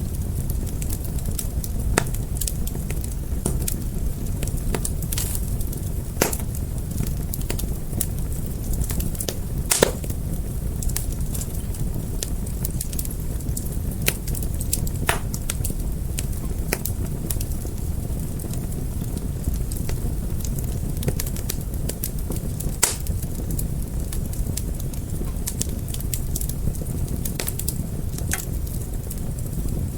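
Fire crackling: irregular sharp pops and snaps over a steady low rumble of burning, with the loudest pop about ten seconds in.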